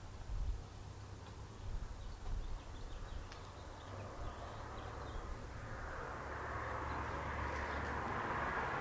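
Quiet outdoor ambience with wind rumbling on the microphone in a few gusts and faint high chirps. A broad hiss slowly grows louder through the second half.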